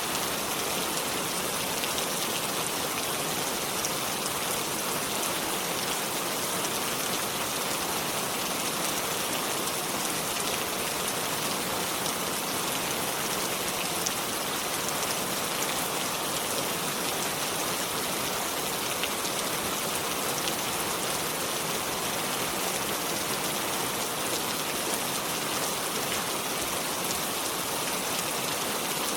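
Steady rain falling on water and surfaces, an even hiss with fine scattered drop ticks.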